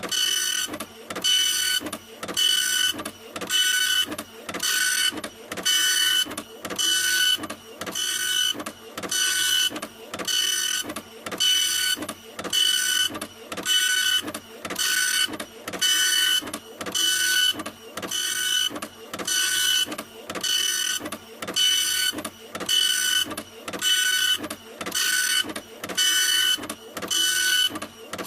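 Printer running continuously, its mechanism whirring in short regular passes about once a second. Each pass carries a steady high whine.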